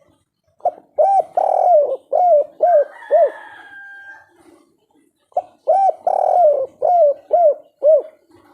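Spotted dove (tekukur, derkuku) cooing: two song phrases a few seconds apart, each a short lead note, a longer coo, then a quick run of arched 'kuk' notes. This is the 'kuk 3' song type that Indonesian dove keepers prize.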